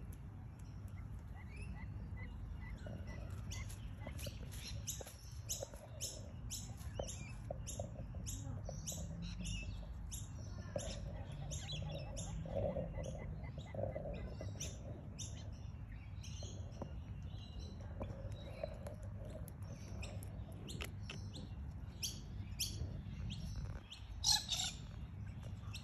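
Birds chirping: a steady run of short, high chirps, one or two a second, over a low steady rumble, with one louder sharp sound near the end.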